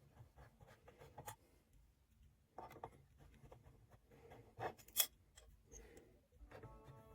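Faint small metal clicks and scrapes of screws being driven into a PC case with a screwdriver, with two sharper clicks about five seconds in. Music comes in near the end.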